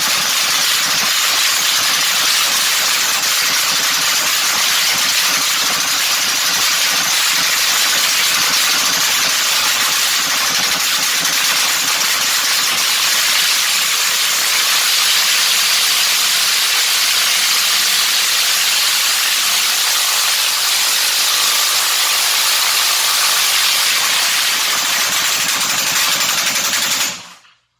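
Rebuilt small racing engine running steadily on a dyno: a loud, even, hissing engine noise that cuts off suddenly near the end.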